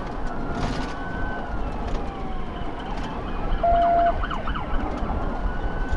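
Police car siren wailing, its pitch rising and falling slowly, over a steady road and engine rumble from a vehicle under way. A short steady beep sounds a little past halfway.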